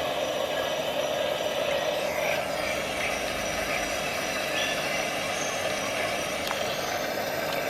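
Steady background hum, with a single faint click near the end.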